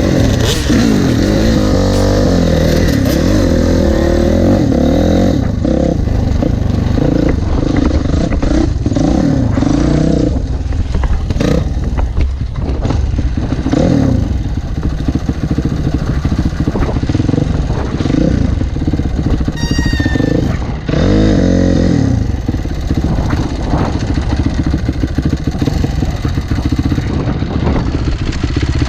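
Motocross dirt bike engine being ridden hard, its pitch repeatedly rising and falling as the throttle is worked, with clattering and rushing wind noise on the microphone.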